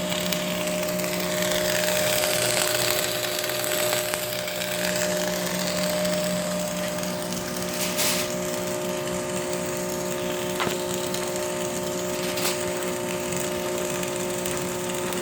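Electric arc welding: the arc crackling and sizzling steadily, with a few sharper cracks, over a steady low hum.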